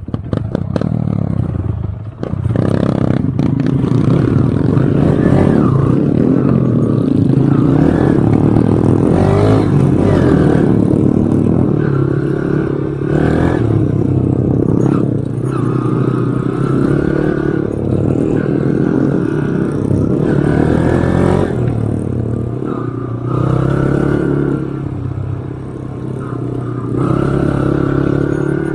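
Dirt bike engine being ridden, its pitch rising and falling again and again as the throttle opens and closes, with clattering knocks now and then.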